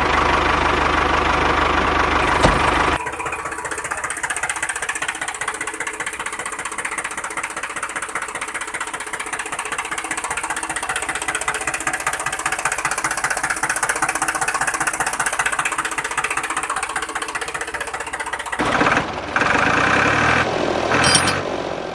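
Tractor engine running with a rapid, steady knock. It is louder for the first three seconds, then settles to a steadier, lower level.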